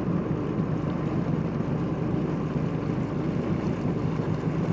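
Jet ski engine idling steadily with a constant low hum.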